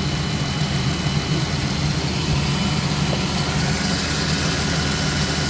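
Ram 1500's 3.6-litre Pentastar V6 idling steadily with its upper intake plenum removed. It is being run to build pressure and circulate coolant while air is bled from the cooling system after a thermostat replacement.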